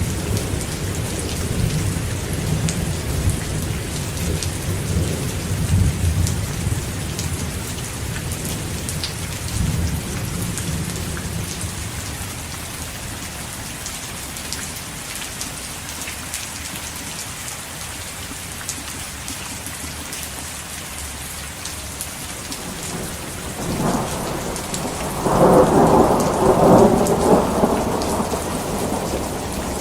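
Heavy rain falling steadily, with thunder. A low rumble fades away over the first ten seconds or so, and a louder crack of thunder rolls in near the end.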